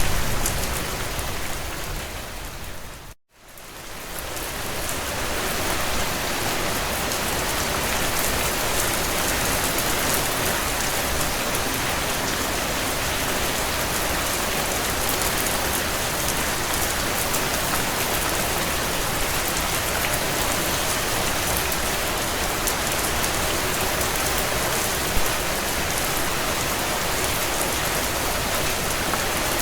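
Heavy rain on a tin roof: a steady, dense patter of drops. About three seconds in, it fades out to silence for an instant and then swells back up.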